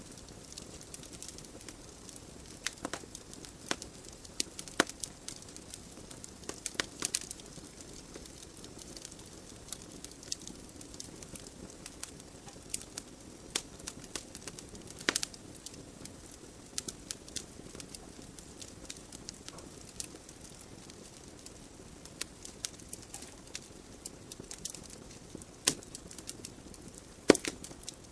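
Wood fire burning in a fireplace: a steady soft hiss of the flames with irregular crackles and sharp pops from the logs, a few louder pops about halfway and near the end.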